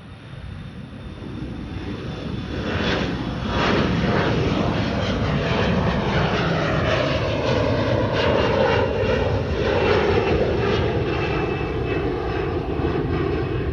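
Embraer regional jet's twin turbofan engines at takeoff power as the jet climbs past. The sound grows louder over the first three or four seconds, then stays loud and steady, with a thin high whine over the low rumble.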